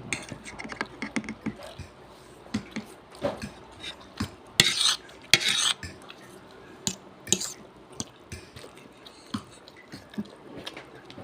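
Spoon and fork clinking and scraping against a plate while mixing and eating palabok noodles, in many small irregular clicks. Two louder, longer rasping noises come a little before halfway through.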